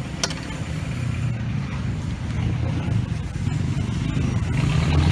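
A motor vehicle's engine runs steadily and grows louder toward the end, with one sharp click about a quarter second in.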